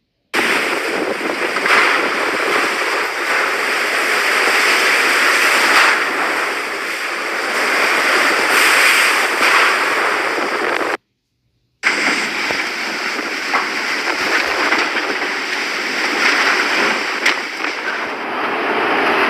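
Steady hissing roar of hurricane rain and storm water, with a crackling, spattering texture. It breaks off in a short silence about eleven seconds in, then carries on the same way.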